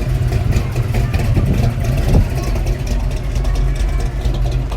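A vehicle engine running steadily, with a brief louder knock about two seconds in.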